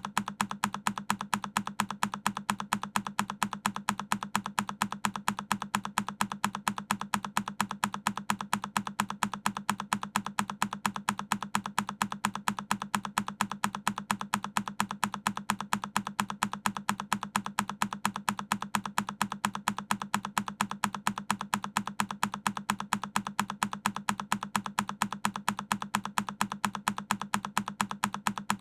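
A single key on a Keychron K10 mechanical keyboard clicking, the same key press repeated in an even loop several times a second.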